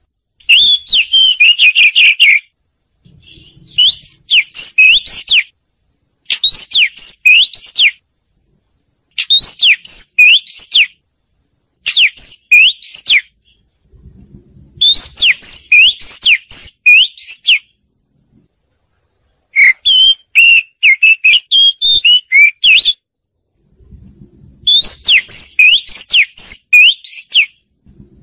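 Oriental magpie-robin song: loud phrases of sliding whistled notes and quick warbles, each one to three seconds long, broken by short pauses. This is the song used as a lure for trapping and to stir caged magpie-robins into singing.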